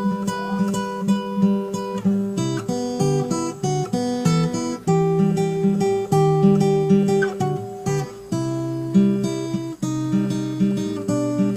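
Solo acoustic guitar playing a picked tune: a steady run of plucked notes and chords with no singing.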